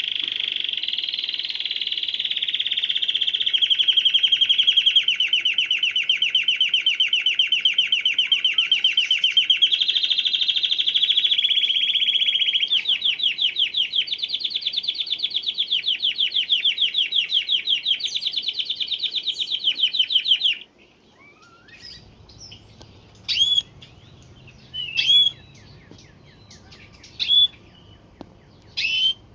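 Canary singing a long unbroken song of fast rolling trills that changes its tempo several times and breaks off abruptly about twenty seconds in. It is followed by about five short, separate chirps a second or two apart.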